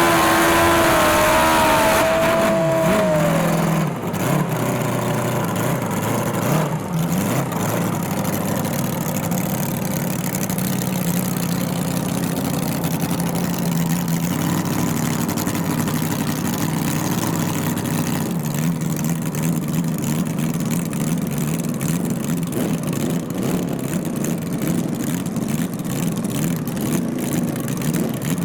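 Drag-racing engine loud at first, its pitch falling over the first three seconds, then a steady, lower run of engine noise for the rest.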